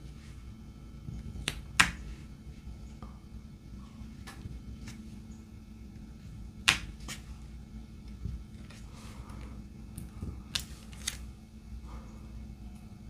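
Scattered light clicks and taps of diamond painting: a drill pen picking up resin drills from the tray and pressing them onto the canvas, with a few sharper clicks standing out. A steady low hum runs underneath.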